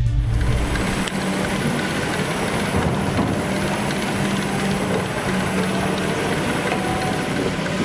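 Heavy machinery running steadily: a constant mechanical noise with a low, steady hum.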